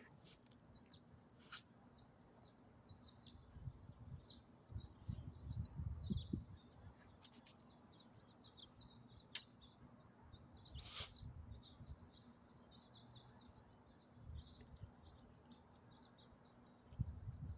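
Faint chirping of small birds, many short high notes throughout, with a few sharp clicks and patches of low rumble.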